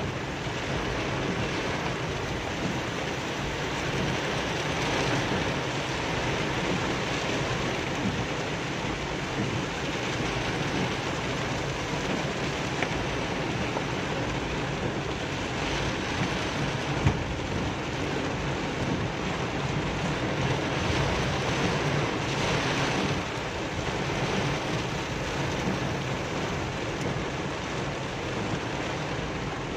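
Heavy rain falling steadily on a car's roof and windshield, heard from inside the cabin.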